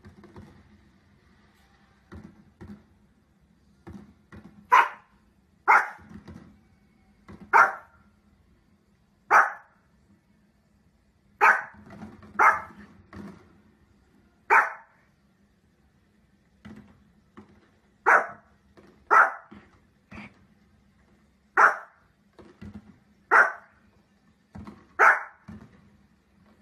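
Pomeranian barking: short, sharp single barks, about fifteen loud ones coming every second or two with a few longer pauses.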